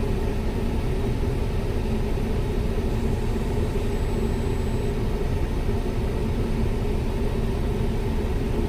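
The 2010 Nissan Pathfinder's 4.0 V6 idling steadily with the cabin blower fan running, making an even, unchanging rumble.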